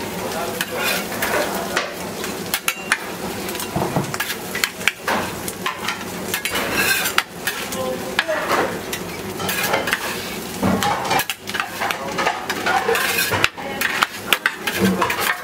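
Food sizzling as it fries in a hot metal pan. Metal utensils stir it, clinking and scraping against the pan in many sharp, irregular clicks.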